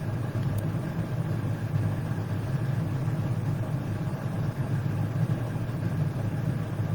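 Steady low rumbling hum with no clear beginning or end, the constant background noise of the room or microphone during a pause in the preaching.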